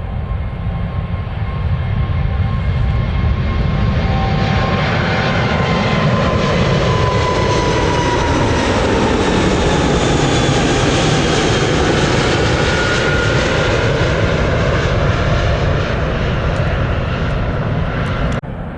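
Airliner engines passing close by. The rumble builds over the first few seconds, and the engine whine falls in pitch as the aircraft goes by. The sound drops away abruptly near the end.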